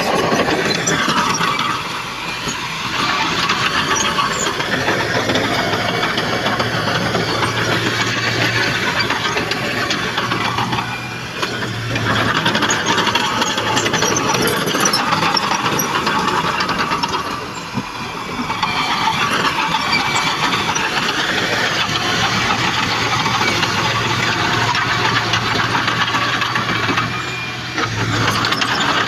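Heavy diesel earthmoving machinery running under load, its engine note steady with brief dips about four times, mixed with scattered metallic clatter.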